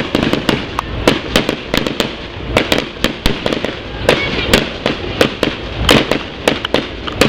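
Fireworks display: a continuous barrage of sharp bangs and crackling bursts, several a second and unevenly spaced.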